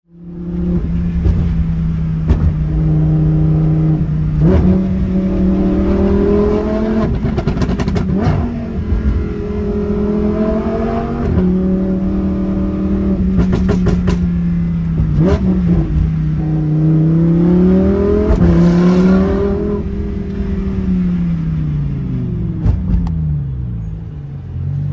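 A Lamborghini's engine heard from inside the cabin, pulling up a winding road: the note climbs and drops in steps as it changes gear several times, with a few sharp cracks, then falls away over the last few seconds as the car slows.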